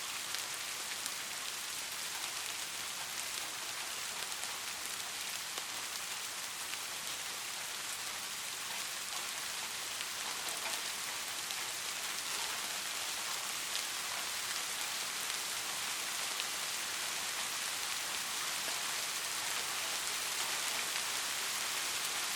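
Steady rain falling, a continuous even hiss with a fine patter of individual drops, growing slightly louder toward the end.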